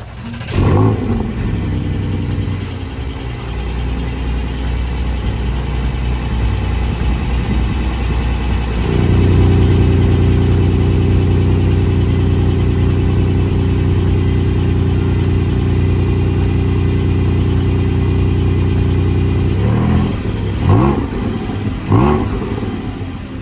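Car engine idling, blipped once about half a second in; about nine seconds in the engine note grows louder, and near the end it is revved in three quick blips.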